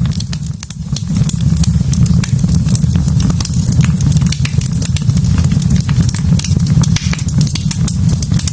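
Wood fire burning in a fireplace, crackling with many small sharp pops over a steady low rumble.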